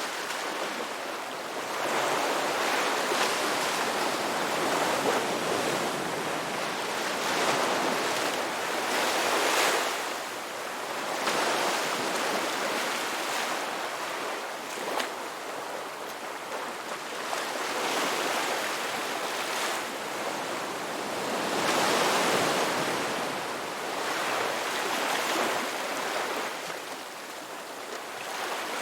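Ocean waves breaking on a shore, a continuous surf wash that swells and eases every few seconds as each wave comes in.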